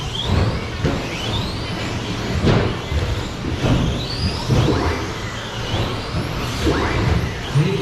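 Several radio-controlled short course trucks racing, their motors whining up and down in overlapping rising and falling sweeps as they accelerate and slow around the track.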